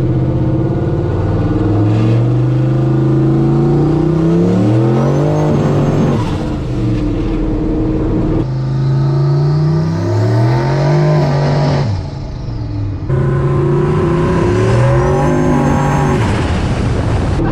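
Turbocharged LS V8 in a square-body Chevy C10 pickup revving hard again and again, its pitch climbing and falling about six times as the rear tyres spin on snow and fail to hook up. There is a short lift off the throttle near the middle.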